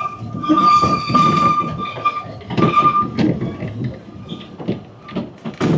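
Steam locomotive whistle sounding over the rumble of a moving train: one long blast, then a short one about two and a half seconds in. After it come scattered knocks and clanks, with a loud clank near the end.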